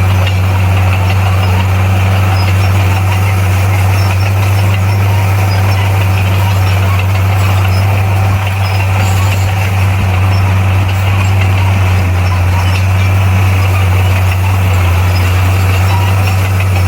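Komatsu D58P bulldozer's diesel engine running steadily with a deep, unchanging drone.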